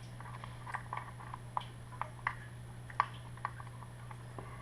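Irregular small clicks and taps of hand tools on the plastic and metal parts of a 1/10-scale RC truck being taken apart. The loudest click comes about three seconds in, and a steady low hum runs under it all.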